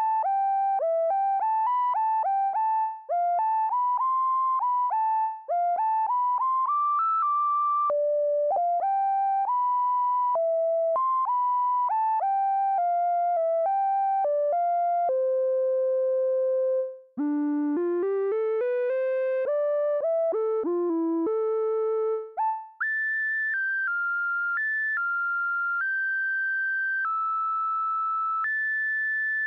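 Roland Fantom's 053 R&B Tri Lead preset: a single-voice synth lead playing a melody. Quick notes for the first half, a long held low note, a rising run, then higher, longer held notes from about two-thirds of the way through.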